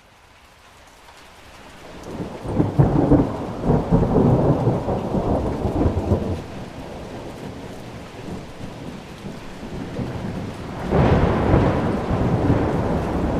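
Thunder rolling over steady rain, fading in from silence. A long low rumble builds about two seconds in and dies away by about six seconds, and a second roll breaks in sharply near the end.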